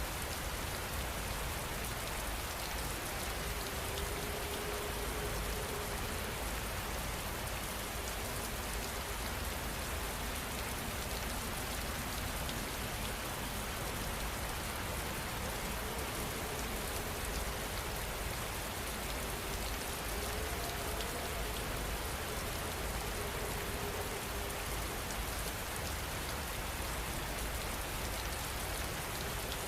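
Steady rain falling, an even, dense patter of drops with no letup.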